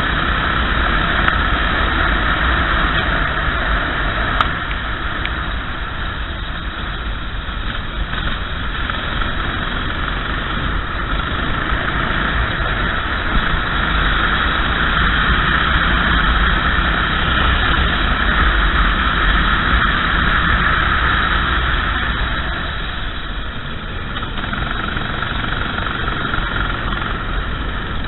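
Racing kart's engine running continuously under throttle, swelling and easing as the kart accelerates and lifts for corners, louder through the middle and dropping back a few seconds before the end.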